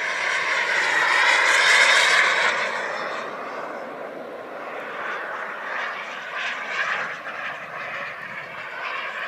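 Radio-controlled model jet flying past with a high engine whine. It is loudest about two seconds in, then falls in pitch as it goes away, and carries on more faintly.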